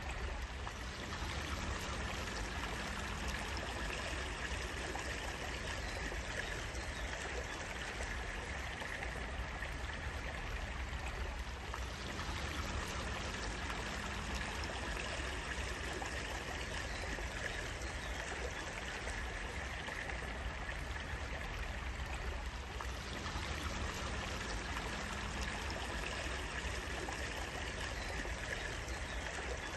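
Running water of a small stream, flowing and trickling steadily without a break.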